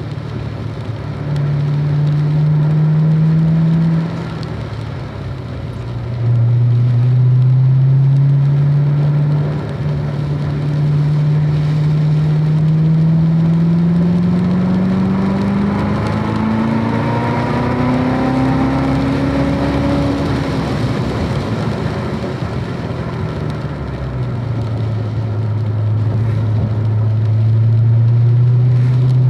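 A car engine being driven hard on a track, with the engine note rising and falling with the throttle. In the middle the pitch climbs steadily for about ten seconds under full acceleration. It then drops off sharply as the driver lifts, settles low, and begins to build again near the end.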